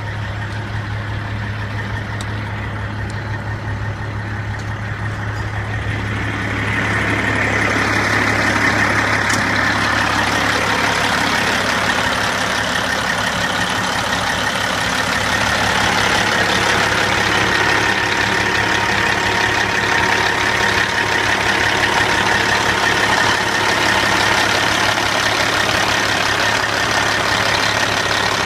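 Caterpillar C15 diesel engine of a 2007 Peterbilt 379 idling steadily, growing louder and brighter about six to seven seconds in.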